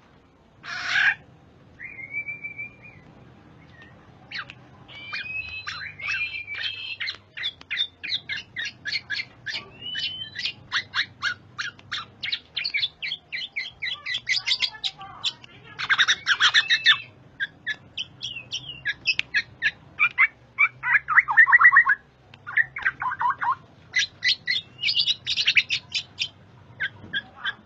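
Black-naped oriole (kepodang) singing: long runs of rapid, chattering notes and short whistles. Louder harsh, rasping calls break in about a second in, around the middle, and again a little later.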